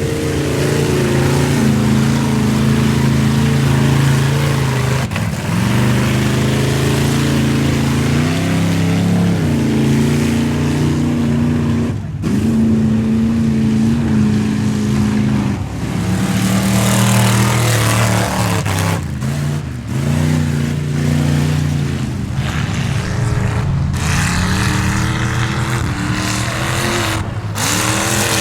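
Loud mud-bog pickup truck engines run at high revs under load, holding a steady pitch, then dipping and climbing again several times, with a few abrupt breaks between runs.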